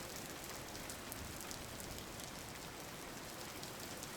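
Steady rain falling on a surface, an even patter of many small drops.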